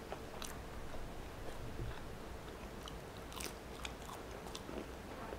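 Close-miked chewing and biting of crisp fried food, with a few scattered crunches and wet mouth clicks.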